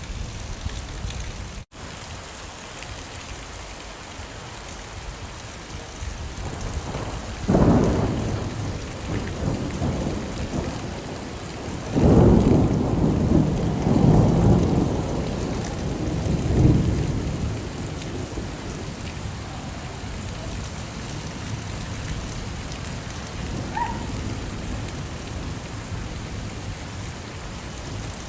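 Steady rain falling, with two rolls of thunder: a shorter one about seven seconds in and a longer, louder one that starts about twelve seconds in and dies away over several seconds. The rain cuts out for an instant about two seconds in.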